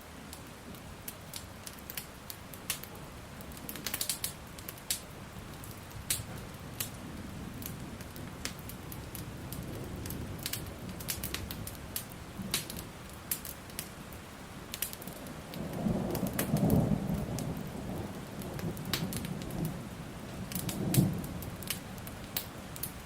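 Steady rain with a wood fire crackling in frequent sharp pops, and rolling thunder underneath that builds through the middle, peaks about two-thirds of the way in, and sounds again in a shorter clap near the end.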